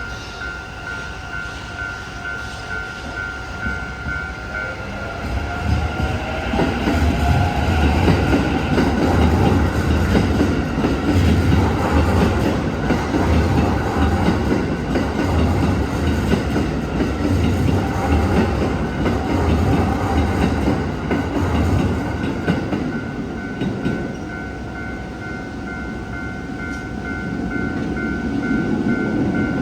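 An electric train passes over a railway level crossing. A whine rises about five seconds in, then the wheels clatter rhythmically over the rail joints for about fifteen seconds. The crossing's warning bell rings at the start and again near the end.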